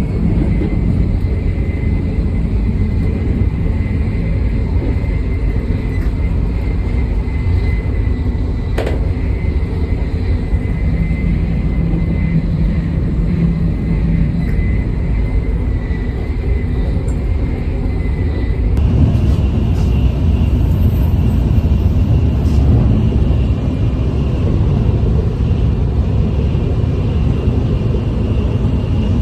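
Shinkansen high-speed train running, a steady rumble with a faint high whine. About two-thirds of the way through, the rumble abruptly changes character and grows slightly louder.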